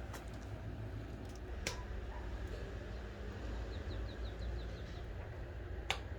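A bird chirping a quick run of about eight short high notes over a steady low rumble, with a couple of sharp clicks.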